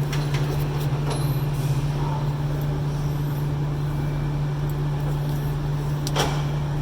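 Steady low hum of an idling truck engine, with a few sharp metallic clicks from brake parts being handled, the clearest one about six seconds in.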